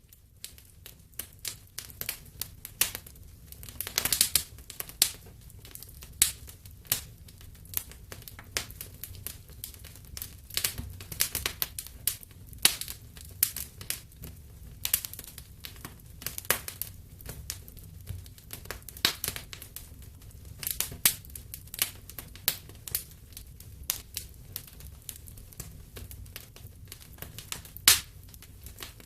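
Wood fire burning in a fireplace, crackling with irregular sharp pops and snaps over a low, steady rumble of the flames, a cluster of louder pops about four seconds in.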